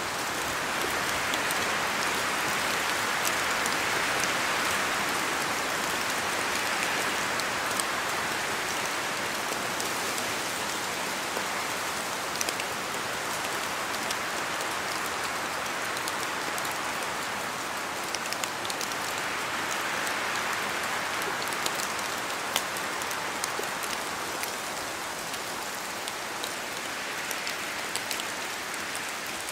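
Steady rain in a forest: a dense hiss of rainfall with sharp single drops falling from the trees. It swells louder a second or two in and again about twenty seconds in.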